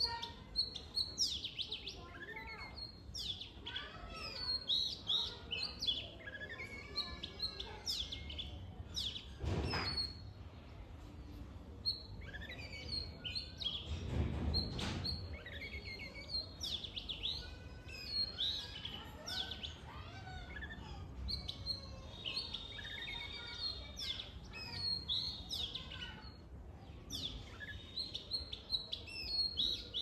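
A chorus of many birds chirping and calling at once, with varied, overlapping high-pitched chirps and whistles. A brief low rumble comes about ten seconds in, and a longer one around fifteen seconds in.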